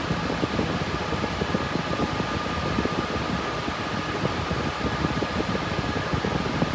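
Cooling fans of an RTX 3060 Ti GPU mining rig running steadily under mining load: an even whirring rush with a faint steady whine over an uneven low flutter.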